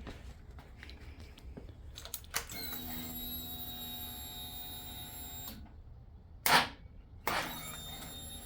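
A failed start attempt on a 2005 Suzuki SV650 with a frozen lithium battery. A few clicks, then a steady whir lasting about three seconds, then a short, loud burst as the starter is tried, and the whir comes back. The engine does not catch because the cold battery's voltage sags to about 4 volts.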